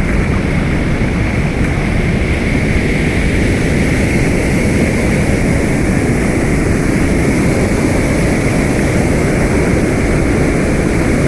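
Steady rushing noise of water pouring over a river spillway, mixed with wind buffeting the microphone.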